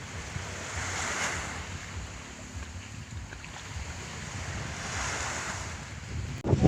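Rushing wind, gusting across the microphone, swelling about a second in and again around five seconds in. Just before the end a much louder sound cuts in abruptly.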